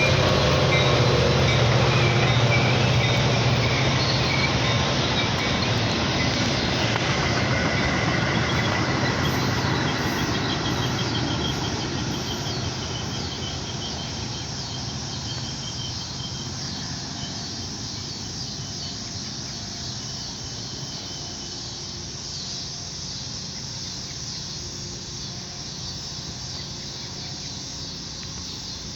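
Train on the move, its sound slowly fading: a locomotive's low engine drone is strong at first and dies away within a few seconds, while the rolling cars carry on with a thin, high wheel squeal that fades out around the middle.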